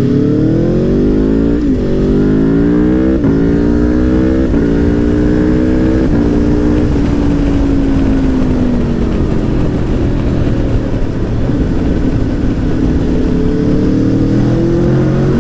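Aprilia Tuono V4 1100 Factory's V4 engine accelerating hard, climbing in pitch and dropping sharply through four quick upshifts about a second and a half apart. It then eases off and runs steadily, and climbs again near the end, with a sound likened to a MotoGP bike.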